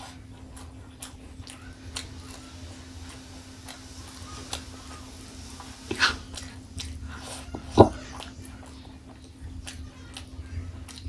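Close-miked eating sounds: chewing and small wet mouth clicks over a faint steady hum, with a sharper bite about six seconds in and a single louder crunch just before eight seconds.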